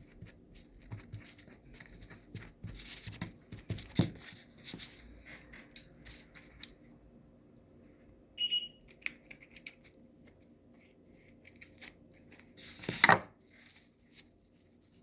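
Rustling, light taps and handling noises of fabric and craft materials being worked and glued down, with a sharp knock about four seconds in and a louder thud near the end. A short high beep sounds about halfway through.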